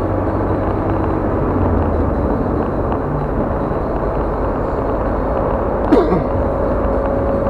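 Car driving on a highway, heard from inside the cabin: steady road and engine rumble. About six seconds in, a single sharp knock with a short falling tone.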